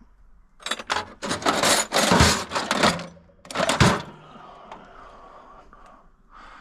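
Tools being rummaged and clattered about in a series of loud, noisy bursts over about three seconds, then quieter.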